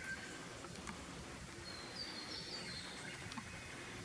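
Quiet garden ambience with a short run of faint, high bird chirps about halfway through.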